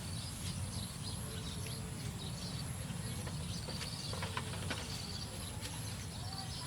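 Outdoor ambience: a steady high insect drone with short high chirps from birds or insects over a low rumble, and a few faint clicks about four seconds in.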